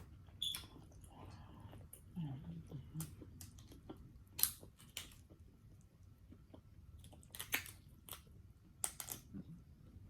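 Close-up eating sounds: chewing with scattered wet mouth clicks and smacks, plus a few short low hums.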